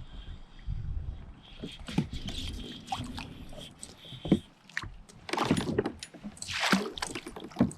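Splashing and knocks on a fishing kayak, with two louder surges of splashing in the second half.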